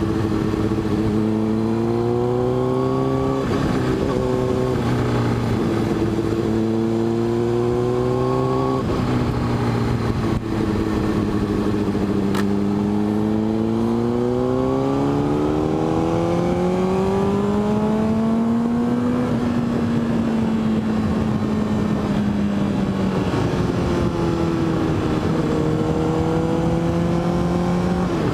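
Motorcycle engine pulling through curves, its pitch climbing under throttle and dropping back several times as the rider shifts or rolls off, over steady wind rush.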